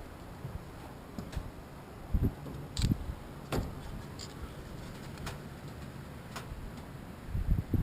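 Several dull low thumps and a few light clicks at irregular intervals over a steady low rumble, the loudest thumps about two to four seconds in and again near the end.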